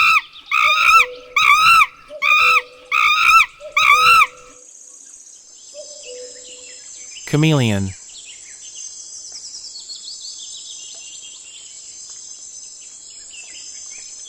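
A monkey calling five times in a quick, even series of rising-and-falling cries. Then a steady high insect drone, like cicadas or crickets, continues to the end.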